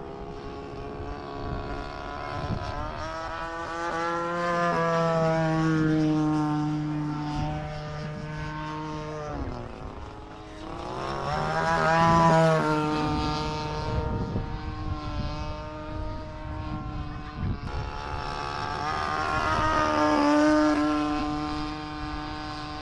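Radio-controlled model airplane's motor and propeller flying past three times, growing louder and then fading with each pass, its pitch dropping as it goes by.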